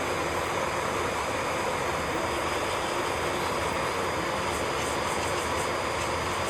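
Electric nail drill running steadily, a constant whir with a thin high whine.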